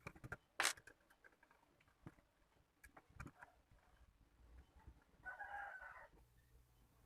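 Faint scattered clicks and light knocks, then a distant rooster crowing once, briefly, about five seconds in.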